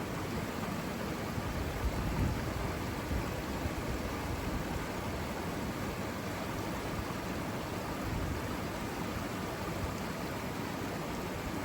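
Saluda River water rushing steadily, an even hiss of flowing water. Low rumbles of wind on the microphone come and go in the first few seconds.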